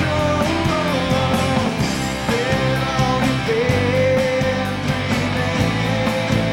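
Rock band playing with no singing: guitars over bass and drums, a steady beat, and a bending melodic lead line on top.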